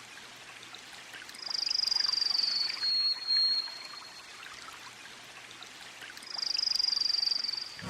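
Two high-pitched buzzing trills from a forest animal, each about a second and a half long and a few seconds apart, with a thin steady high tone between them, over a faint steady hiss.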